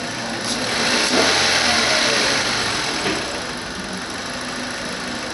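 Mitsubishi Colt 1.3-litre 4A90 inline-four engine running at idle, revved briefly about a second in and dropping back to idle by about three seconds.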